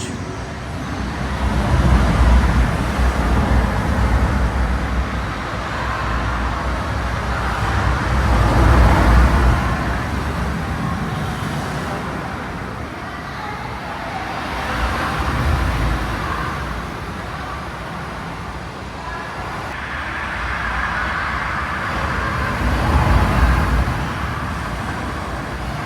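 Ocean surf in the immersive Starry Beach room, waves rushing in and drawing back in slow swells about every six to seven seconds.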